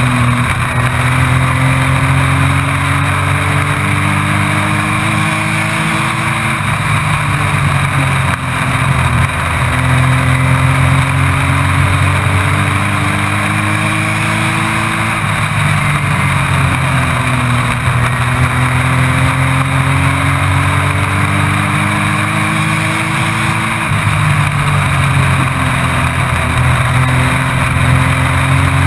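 Race truck engine heard from inside the cab at racing speed: the pitch climbs steadily along each straight and drops as the driver lifts for the turns, three times, about every eight seconds.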